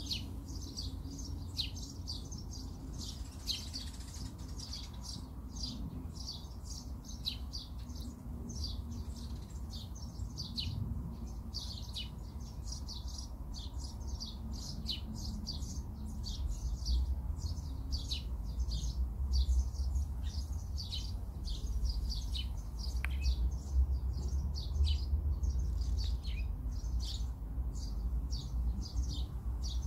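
Birds chirping over and over, several short high calls a second, with a low rumble underneath that grows louder in the second half.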